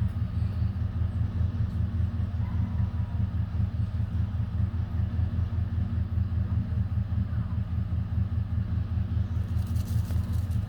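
Idling car engine: a steady low rumble with a fast flutter.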